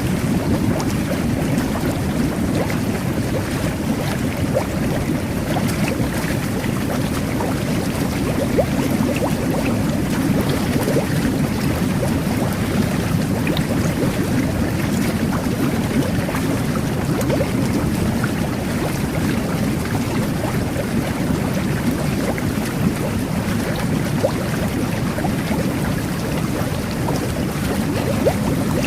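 Jet bath (jet-type bubble bath) running: a steady low rushing and churning of water and air from the jets, with fine crackling of bubbles over it.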